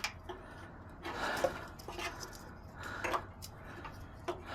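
Scattered light clicks, clinks and rattles of small hard parts being handled, with a couple of short rustling scrapes.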